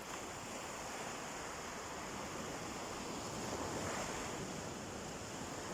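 Sea surf washing onto a beach, a steady wash of waves that swells a little past the middle.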